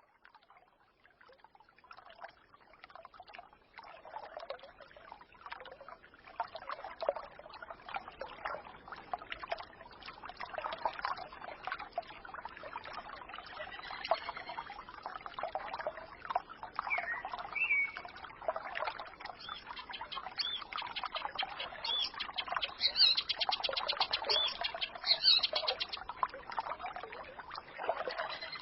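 Small forest stream babbling and trickling, fading in over the first few seconds, with songbirds chirping over it and a rapid high trill of birdsong in the last few seconds.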